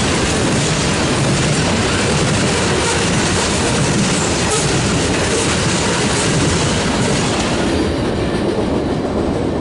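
Train cars rolling past at close range, a steady rumble and clatter of wheels on rail; the higher, hissing part of the sound thins out near the end.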